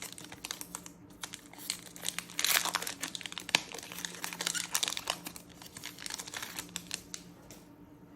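Foil wrapper of a trading card booster pack crinkling as it is handled and torn open, a run of crackly rustles that is loudest about two and a half to three and a half seconds in and dies away near the end.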